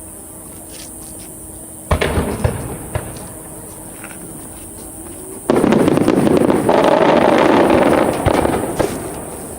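Aerial fireworks bursting: a sharp boom about two seconds in and another a second later, then a loud, dense run of bursts from about five and a half seconds in that lasts some three seconds and fades.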